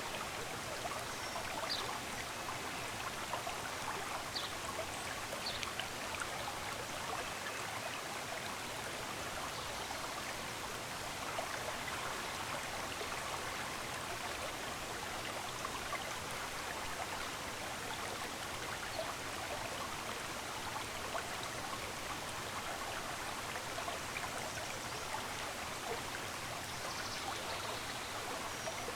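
A small stream running steadily, with a few faint, brief bird chirps now and then.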